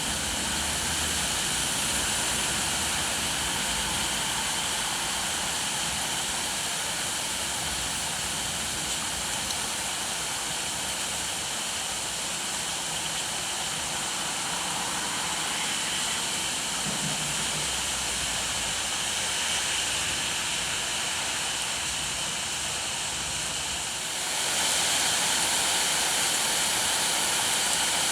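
Steady rain falling, an even hiss that becomes louder near the end.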